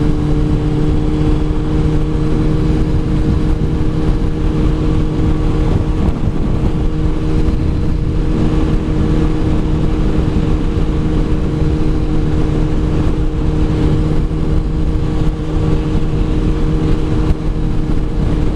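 Kawasaki ZZR600 motorcycle's inline-four engine running at a steady pitch while cruising at constant speed, with wind noise rumbling over the microphone.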